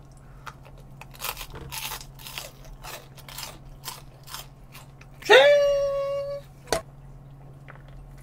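Close-miked crunchy chewing of sauced chicken, a dozen or so crisp crunches over the first five seconds. Then a brief high voiced sound from the eater, held about a second, and a single sharp click.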